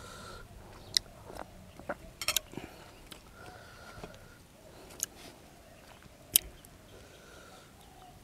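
A person chewing and biting mouthfuls of shrimp larb, with a few sharp clicks and crunches about a second apart.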